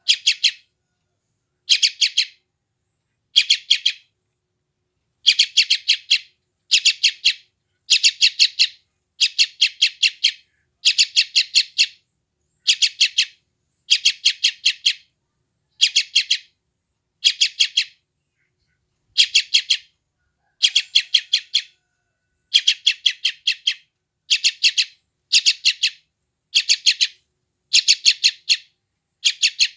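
Young yellow-vented bulbul (trucukan) calling over and over in short clusters of rapid, sharp chirps, about one cluster a second, with a brief pause about two-thirds of the way through.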